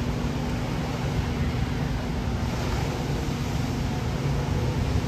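Wind buffeting the microphone over a steady rushing noise, with a faint, low, steady hum underneath.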